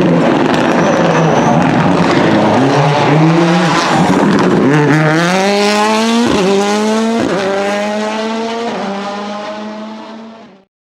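Ford Fiesta WRC Plus rally car's turbocharged 1.6-litre four-cylinder engine. It runs low and rough amid a noisy haze for the first few seconds, then accelerates hard with a rising note. There are three quick upshifts, about a second apart, before the sound fades away and cuts off near the end.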